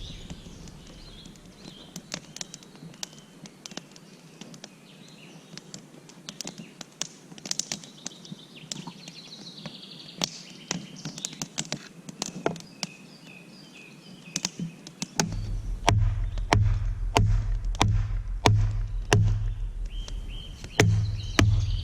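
Birds chirping over scattered sharp taps and knocks. About two-thirds of the way through, a low, evenly repeating beat of background music comes in.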